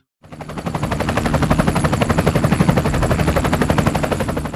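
Loud, fast rattle of evenly spaced clicks, about ten a second, starting and stopping abruptly.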